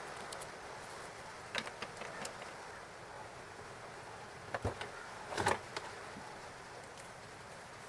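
Light taps and clicks of stationery being handled on a desk over a soft steady hiss, with the loudest cluster of clicks about five and a half seconds in.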